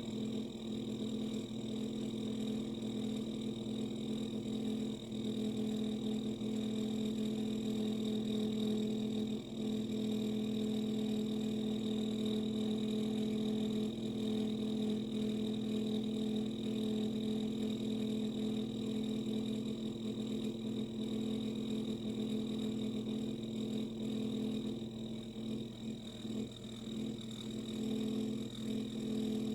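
Samsung dishwasher running with a steady, unchanging droning hum and a faint high whine above it, a horrible sound from a unit the owner considers a lemon.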